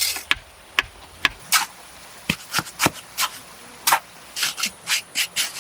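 A series of short, sharp scrapes at an uneven pace, about two a second.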